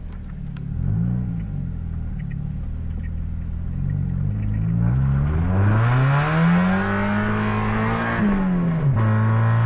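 Mazda Miata's four-cylinder engine, heard from inside the car: a short rev about a second in, then a long climb in revs under hard acceleration that holds and falls sharply shortly before the end.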